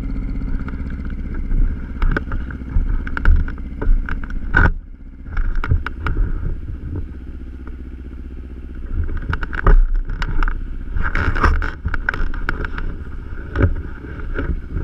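Kawasaki Ninja 250 motorcycle's parallel-twin engine running at a steady idle, with irregular knocks and rattles throughout.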